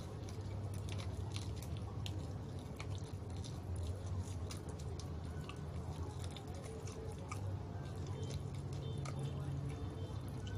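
Chewing and biting into crispy deep-fried chicken close to the microphone, many small crunchy crackles throughout, over a steady low hum.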